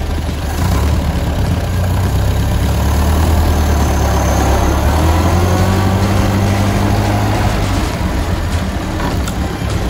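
1930 Ford Model A's four-cylinder flathead engine running as the bare chassis drives along, a steady low engine note that picks up just under a second in and eases off near the end.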